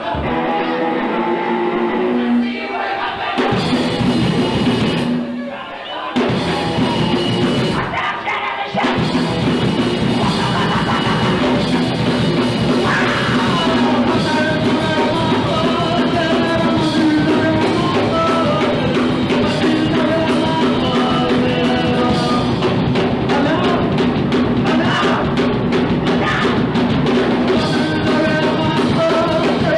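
Punk rock band playing live, with electric guitars, drum kit and singing. The playing breaks off briefly a few times before running steadily from about nine seconds in.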